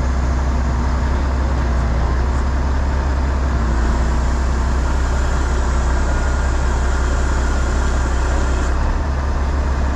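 Heavy truck diesel engine running steadily, with a hiss over it that cuts out near the end.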